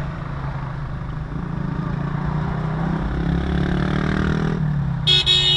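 Car engine and road noise heard from inside the cabin while driving among motorcycles. The engine note climbs steadily for a few seconds, then drops away, and a brief high-pitched tone sounds near the end.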